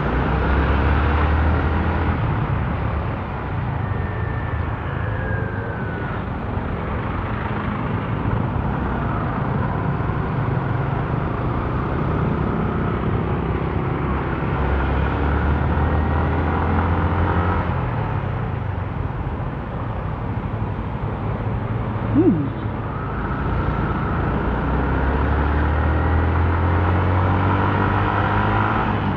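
Motorcycle engine running on the move with road noise, its pitch rising and falling as it speeds up and slows. A short sharp loud sound about 22 seconds in.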